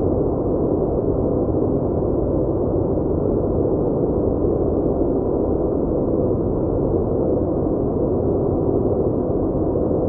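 A steady, muffled droning noise with no breaks or separate events.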